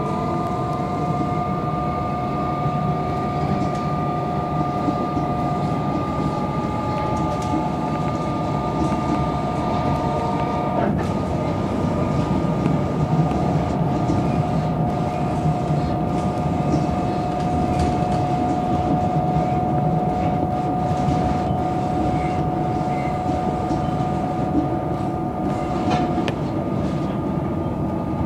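Inside a Melbourne suburban electric train running along the track: a steady rumble with a constant high whine over it.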